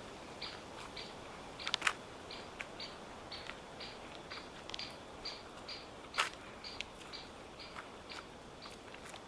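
A small bird repeating a short high call about two to three times a second, with a few crackling footsteps on dry fallen leaves, the loudest a little after a second and a half in and again about six seconds in.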